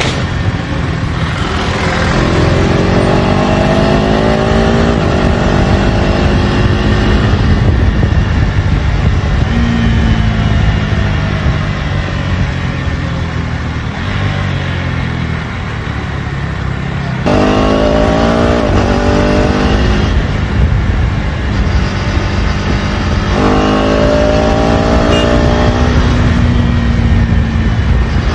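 KTM Duke 250 Gen3's single-cylinder engine through its stock exhaust, pulling up through the gears three times with a rising note and brief breaks at each gear change, easing off in between; a low rushing noise runs under it.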